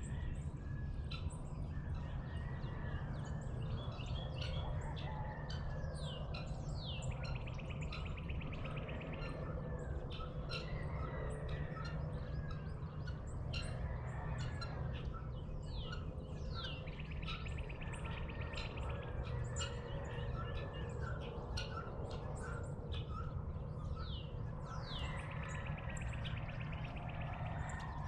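Dawn chorus of several songbirds chirping, with repeated falling whistles and a buzzy trill that comes back about every eight seconds, over a steady low rumble.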